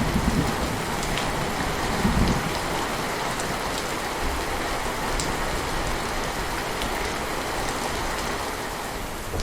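Steady, heavy rain falling on a surface, with scattered single drop ticks. Two brief low rumbles come at the very start and about two seconds in.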